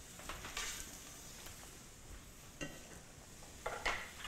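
Food sizzling faintly in a hot pan, with a few light clicks and scrapes of metal utensils and a couple of sharper clicks near the end as a metal spatula is laid down on a board.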